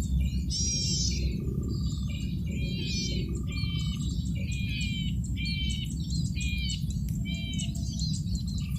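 Male golden-headed cisticola singing: a short phrase of stacked, quickly sliding high notes, repeated about once a second over a steady low background rumble.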